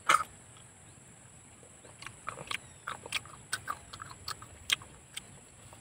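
Mouth sounds of eating vinegar-marinated raw river snails: a short slurp right at the start as a snail is sucked from its shell, then, from about two seconds in, scattered small wet clicks of chewing.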